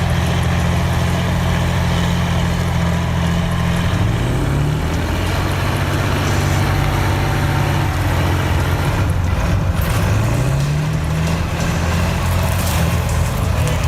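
Kirovets K-701 tractor's diesel engine running hard under load as it pushes against a tree, its pitch rising twice.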